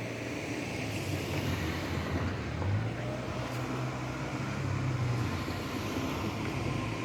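Tobu 60000 series electric commuter train running past at low speed, a steady rumble with a low motor hum that swells slightly midway.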